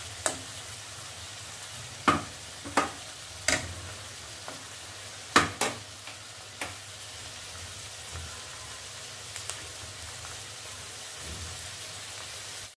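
Onions, tomatoes, chickpeas and whole spices sizzling steadily in oil in an aluminium kadai as the masala is fried. In the first seven seconds a wooden spatula knocks sharply against the pan several times.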